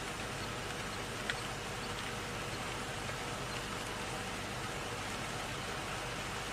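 Steady rush of water, with a few faint short ticks, the clearest about a second in.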